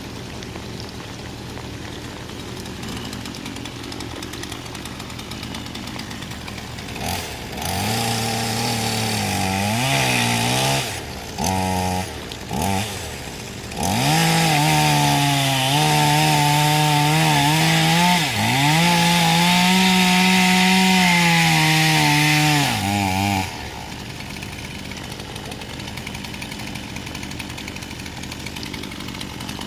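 Two-stroke chainsaw idling, then revved in short blips from about seven seconds in and run at full throttle for about nine seconds cutting through a fallen tree, its pitch dipping briefly midway as the chain bites, before dropping back to idle. It revs again near the end.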